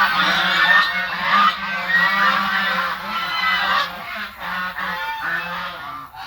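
A flock of birds calling, with many short calls overlapping continuously.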